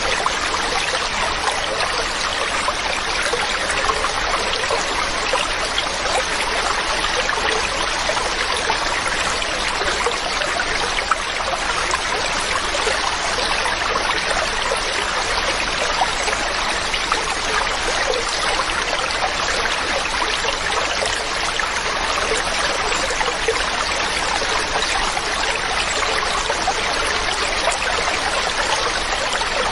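Mountain stream running steadily, an even rush of water over rocks with fine trickling and splashing.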